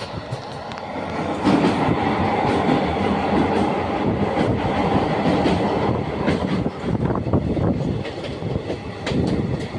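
A train running over the steel Yamuna railway bridge: a steady rumble with rapid clattering of wheels over the rails and bridge.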